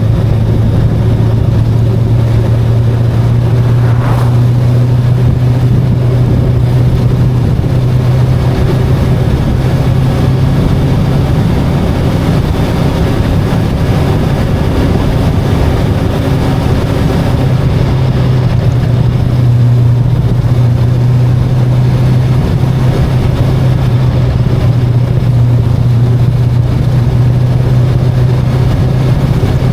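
VOGE 525DSX motorcycle's parallel-twin engine running steadily on the road, mixed with a rush of wind noise.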